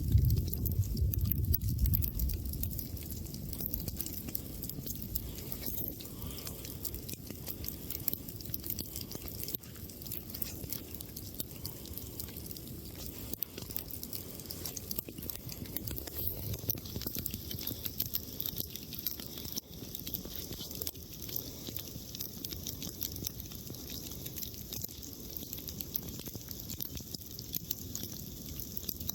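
Campfire of burning wood crackling steadily with many small irregular cracks over a constant hiss. A low rumble fades out in the first two seconds.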